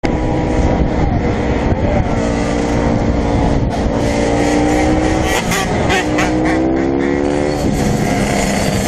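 Several dirt bike engines running and revving together, their pitches overlapping and rising and falling, with one engine's pitch climbing steadily for about a second and a half before it drops back.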